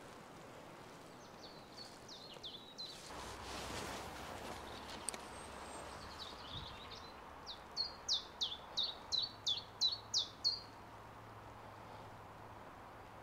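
A songbird singing outdoors in two phrases, the second ending in a quick run of about ten sharp, falling notes. A brief rush of noise, like a gust of wind, comes about three seconds in.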